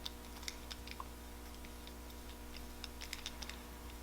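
Faint scattered clicks and light taps of small tools and metal parts being handled while a motorcycle carburetor is taken apart. The clicks come in a bunch in the first second and again about three seconds in, over a steady low hum.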